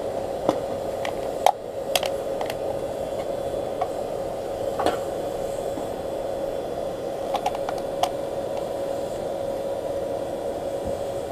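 Blower-fed charcoal paint can furnace running: a steady rushing noise with a constant hum, broken by scattered sharp clicks and ticks.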